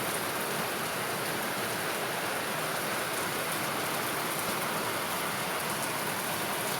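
Heavy, steady rain pouring down, a constant hiss of downpour on surfaces.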